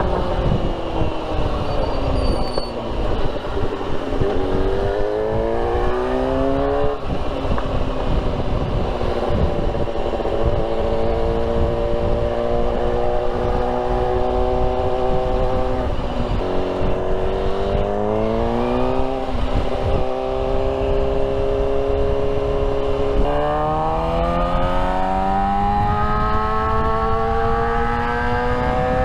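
Suzuki motorcycle engine under way. Its note falls for the first few seconds, then climbs as it accelerates, dropping suddenly at gear changes about seven and twenty seconds in. It holds steady while cruising in between and climbs again through the last several seconds.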